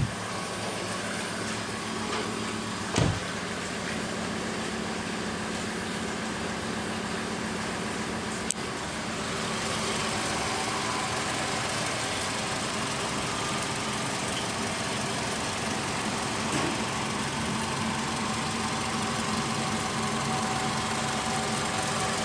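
Toyota Camry engine running at a steady idle, with a single low thump about three seconds in and a sharp click near the middle; the sound gets a little louder and brighter about ten seconds in.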